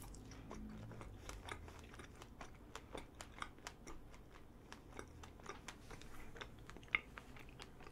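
Close-miked chewing of a soft strawberry chapssaltteok, a thin glutinous rice cake filled with fresh strawberry and red bean paste. It comes through as faint wet mouth clicks and smacks, two or three a second.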